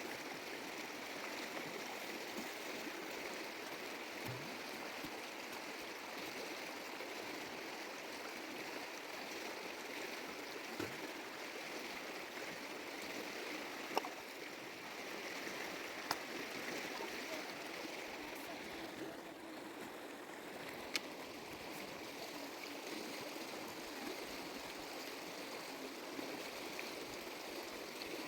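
Mountain stream flowing steadily, with a few sharp clicks or knocks in the middle.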